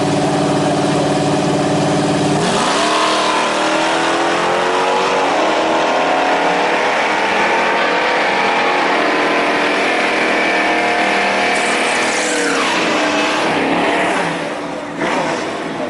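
Drag racing engines, including the 1963 Chevy pickup's, held at steady revs on the starting line, then launching about two and a half seconds in with a rising pitch, a brief dip at a gear change, and running hard down the strip until the pitch drops near the end as the throttle is lifted and the sound fades away.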